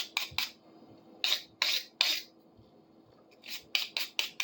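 Hand scrubbing on a pair of steel pliers: a run of quick strokes at the start, three longer strokes around the middle, and another run of quick strokes near the end.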